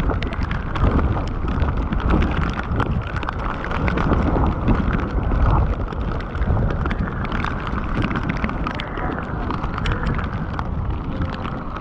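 Heavy rain falling in a downpour, with wind buffeting the microphone as a steady low rumble and many sharp ticks of drops striking hard surfaces.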